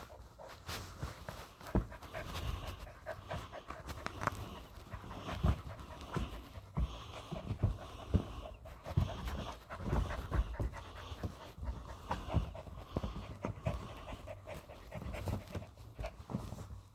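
A miniature Australian Shepherd puppy panting steadily, with scattered short thumps and knocks throughout.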